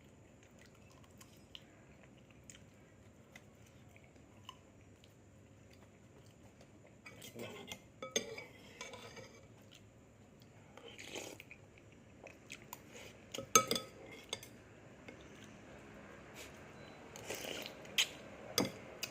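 Utensils clinking and clattering against dishes and pots, scattered knocks and clinks after a few quiet seconds, loudest about halfway through and again near the end.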